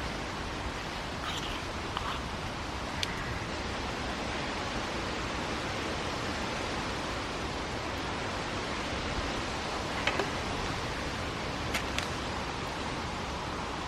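Wood fire burning in a Bushbox XL stove: a steady hiss with a few sharp crackles, a small cluster about a second in and another near the end.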